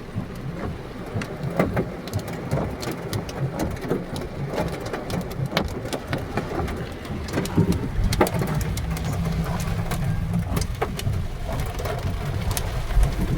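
Heavy rain falling steadily, with many sharp drip and splash ticks from drops striking a hard surface close by and a steady low rumble underneath.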